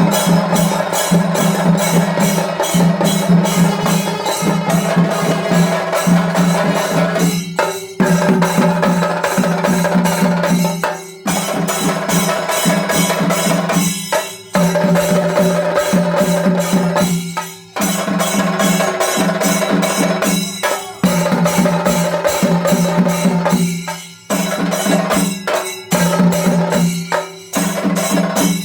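Chenda melam: Kerala chenda drums beaten in fast, dense strokes, the phrases breaking off briefly about every three seconds in a repeating cycle.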